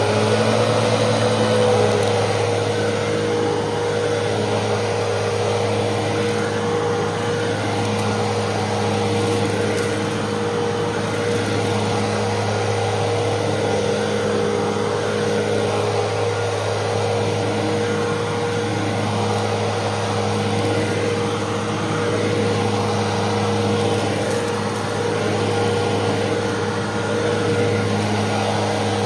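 Fantom Fury upright vacuum cleaner's 10-amp motor running steadily while vacuuming, a constant whine over a low hum. The motor is still settling to full speed in the first second.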